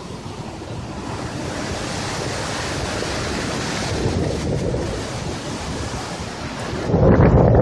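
Storm surf and wind during a hurricane: the rush of an incoming wave builds to a steady loud hiss, eases a little, then near the end a sudden, much louder low rumble of wind buffeting the microphone.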